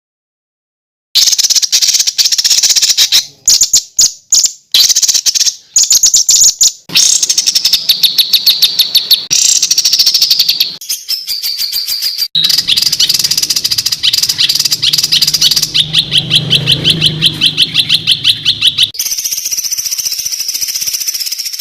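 Songbird song recorded for masteran tutoring: loud, rapid 'tembakan' bursts of quickly repeated harsh notes, the dense fast style prized in songbird contests. It starts after about a second of silence and changes pattern every few seconds, several stretches in a row.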